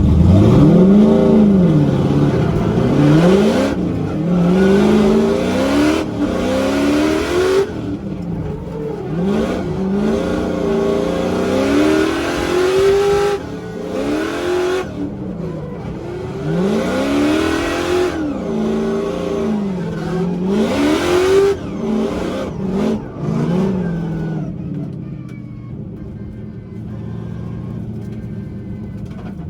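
High-horsepower drift car engine revving hard, its pitch climbing and dropping over and over as the throttle is worked through a drift, then easing to a quieter, steadier drone near the end.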